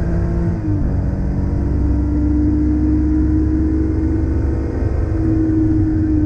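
Air-cooled 3.2-litre flat-six of a 1987 Porsche 911 Carrera under hard acceleration, heard from inside the cabin. The note dips briefly at an upshift about half a second in, climbs steadily through the gear, then drops away near the end as the car begins to slow.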